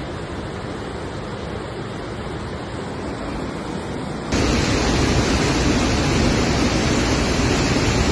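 Rushing floodwater, a steady noisy rush; about four seconds in it cuts abruptly to a louder, fuller rush.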